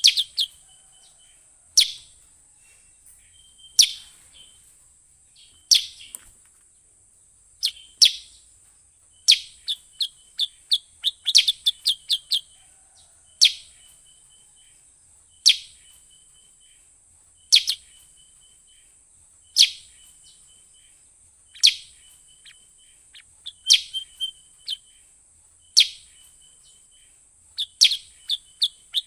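Recorded sooty-headed bulbul (kutilang) calls used as a bird-catcher's lure: a sharp, loud call about every two seconds in a repeating pattern, with quick runs of short chattering notes between some of them. A steady high hiss runs underneath.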